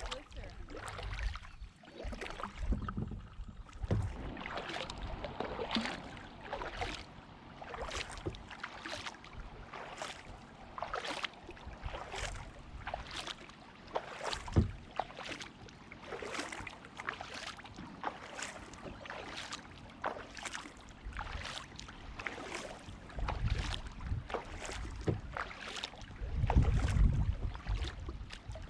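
Kayak paddle blades dipping and splashing into the water in a steady alternating rhythm, about three strokes every two seconds. Low wind rumble on the microphone comes and goes near the end.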